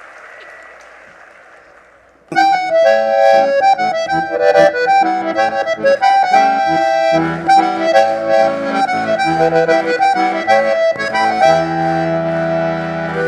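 Applause dying away, then about two seconds in an accordion starts playing a baião intro, melody over bass notes.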